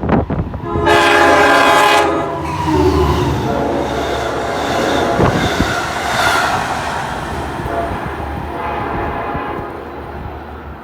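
A train sounding its horn over the low rumble of the train: a loud, chord-like blast about a second in lasting about a second, a lower tone just after, and a fainter blast near the end.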